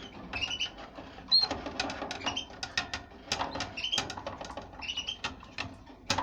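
Caged canaries giving short chirping calls about once a second, among many light clicks and taps.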